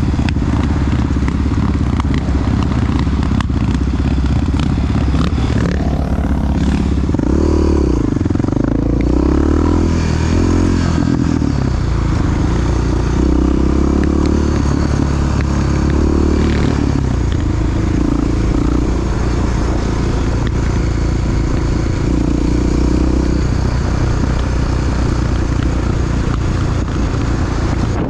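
Big single-cylinder four-stroke Honda XR dirt-bike engine running while riding, its note rising and falling several times in the middle with throttle and gear changes and otherwise steady.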